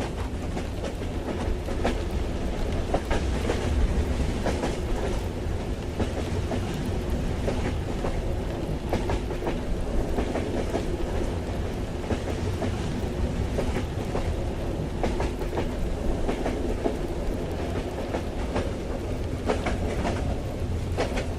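Train running along the track, heard as a carriage ambience: a steady low rumble with irregular clicks and rattles from the wheels and carriage.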